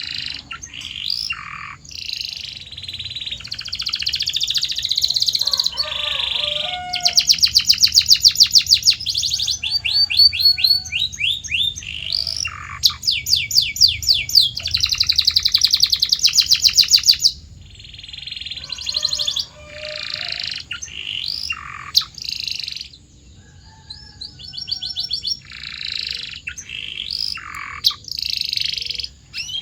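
Canary singing a long, varied song: warbled phrases broken by rapid rolls of fast repeated notes, the loudest rolls in the first half, then quieter phrases with a brief pause past the middle.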